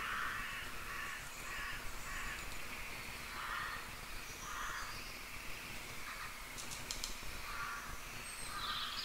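Faint background of distant birds calling with short raspy calls, repeating about once a second, and a few quick clicks about seven seconds in.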